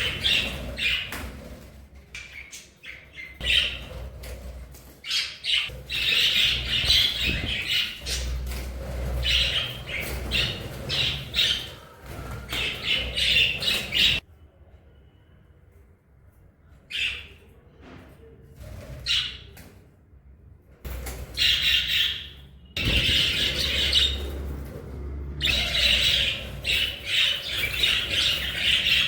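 Budgerigars chirping and chattering with harsh squawks, in busy bursts broken by a quieter stretch of a few seconds near the middle.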